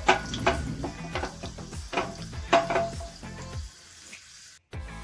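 Cashews and raisins sizzling in hot ghee in a small non-stick pan, with a few sharp knocks as the pan is shaken on the gas burner. The sound drops out briefly near the end.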